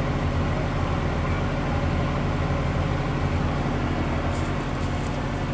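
A large diesel engine, most likely the sugarcane harvester's, running steadily with an even drone, with a few faint high ticks near the end.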